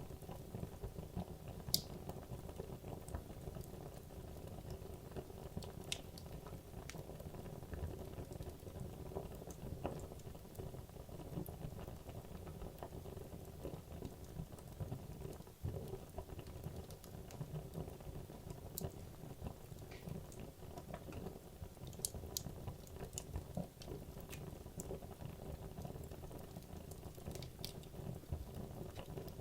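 Wood logs burning in a fireplace: a steady low rush of flame with scattered sharp crackles and pops.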